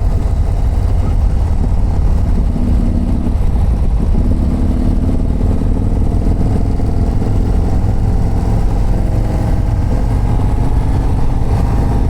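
2024 Harley-Davidson CVO ST's 121 cubic-inch V-twin running steadily on the road under heavy wind rumble on the microphone. Its pitch climbs slowly near the end as the bike picks up speed.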